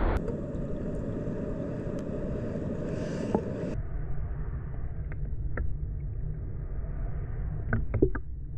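Steady rushing noise of a mountain stream with a deep rumble, changing character abruptly twice, with a few faint short high sounds near the end.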